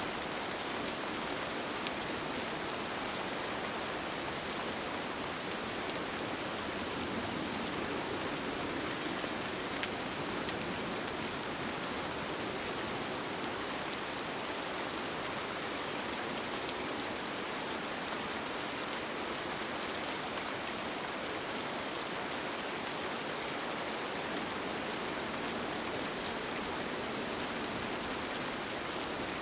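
Steady rain falling, with the patter of drops on a surface and scattered individual drop ticks, even and unbroken.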